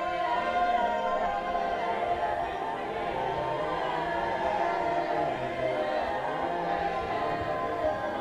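Several voices singing together in long, overlapping held notes.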